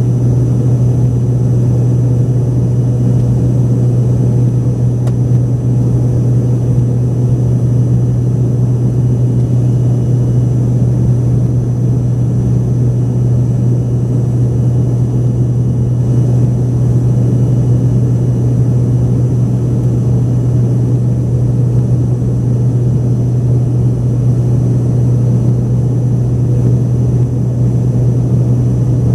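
Cabin noise inside an Embraer ERJ-145XR regional jet: its rear-mounted Rolls-Royce AE 3007 turbofans running steadily, a loud, even drone with a strong low hum that does not change.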